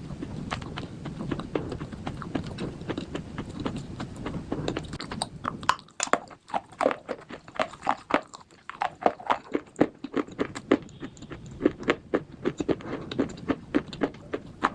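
Slate bars being bitten and chewed: a dense run of crisp crunching cracks, muffled at first and then sharper and louder from about five seconds in.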